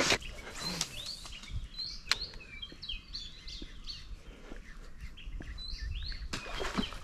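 Small birds chirping: a run of many short, quick chirps. A sharp knock stands out about two seconds in.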